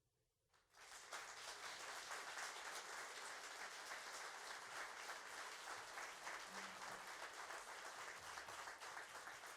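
Audience applauding at the end of a song, starting about a second in after a brief near-silence and going on steadily.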